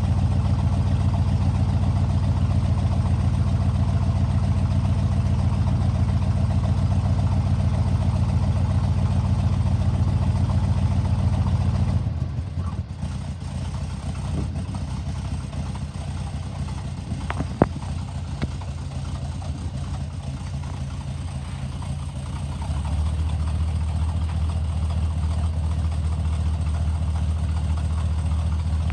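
1974 GMC 6500 truck engine running steadily at idle. It is quieter for about ten seconds in the middle before returning to its earlier level, with one sharp click partway through the quieter stretch.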